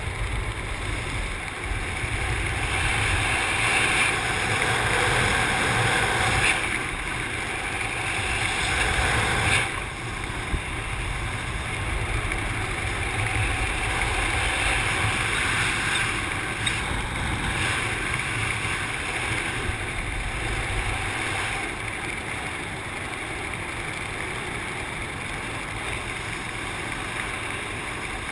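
Rushing wind on the microphone of a wingsuit pilot in flight, a steady noise of air that is louder for the first ten seconds or so and then eases a little.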